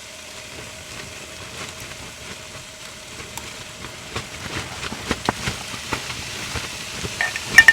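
Ground beef, peppers and tomatoes sizzling in a frying pan. The crackling grows busier after a few seconds, with a couple of sharp clacks near the end.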